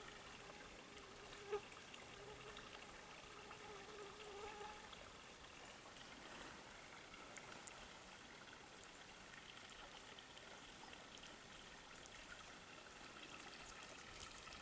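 Near silence: a faint steady hiss, with a faint humming tone through the first few seconds and a few soft clicks.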